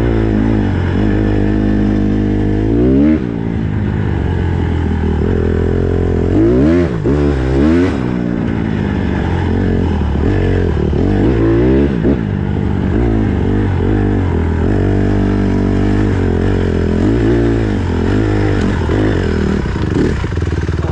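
Dirt bike's single-cylinder four-stroke engine being ridden on a trail, revving up and dropping back again and again as the rider works the throttle and gears.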